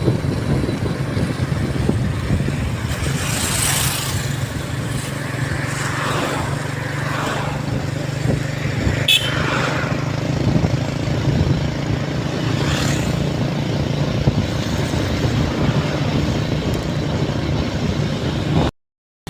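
Riding on a scooter in road traffic: the small engine drones steadily under road and wind noise, and other vehicles swell past several times.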